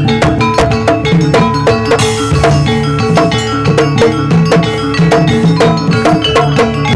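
Javanese jaranan gamelan music: drums with struck, ringing metal percussion playing a fast, dense rhythm.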